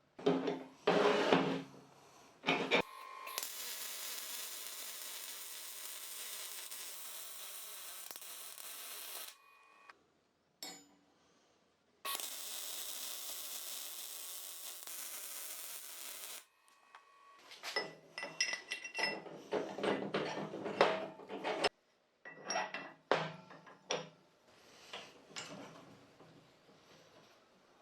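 Metal parts and tools clanking and clinking. Two steady hisses of several seconds each come in between, the first lasting about six seconds and the second about four.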